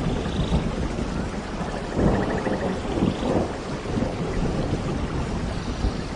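Steady heavy rain with low rumbling thunder, swelling louder about two seconds in.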